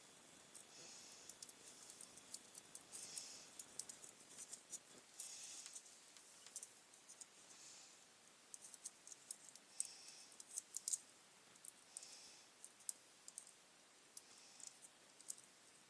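Faint clicks and short scrapes of small plastic and metal parts being handled as a wire is worked into the terminal of a 13 amp mains plug. The loudest clicks come about two thirds of the way through.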